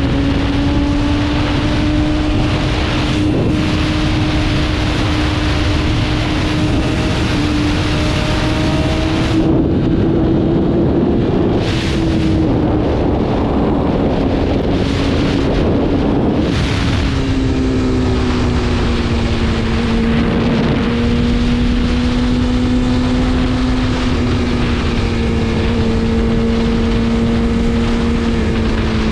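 BMW S1000RR's inline-four engine running at a steady pace under way, with wind rushing over the microphone. Partway through the top end dulls for a few seconds, then the engine note settles a little lower.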